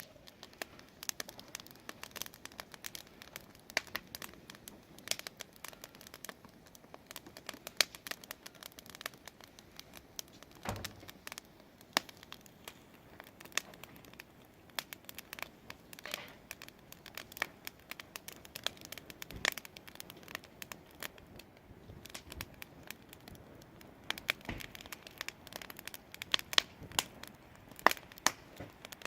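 Wood fire burning in a fireplace, crackling with irregular sharp pops and snaps, some much louder than the rest.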